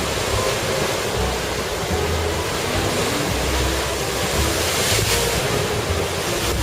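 Heavy typhoon surf pounding a rocky shore, with strong wind buffeting the microphone in low rumbles. A wave breaks louder about five seconds in.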